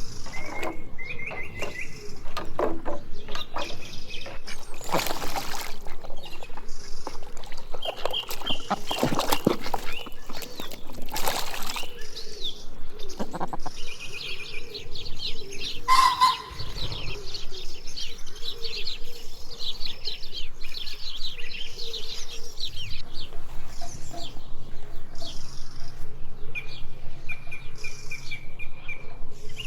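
Small birds chirping, in runs of short calls, over scattered knocks and clicks.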